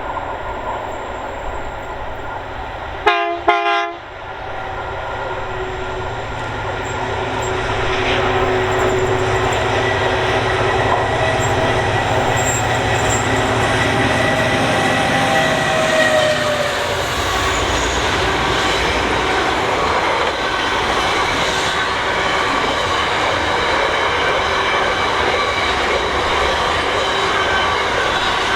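Diesel-hauled freight train passing at speed: two short horn blasts about three seconds in, then the locomotives' engines come closer and drop in pitch as they go by, followed by a steady rumble and clatter of wagons on the rails.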